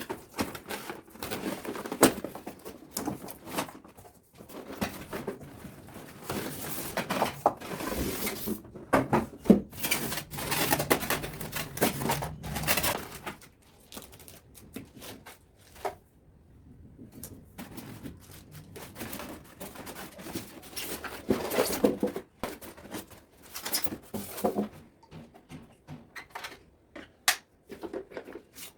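Irregular clicks, knocks and rustling of packaging and parts being handled while a sewing machine is unpacked.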